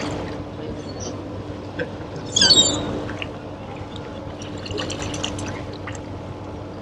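A seagull giving one loud, short call about two and a half seconds in, over water lapping and dripping.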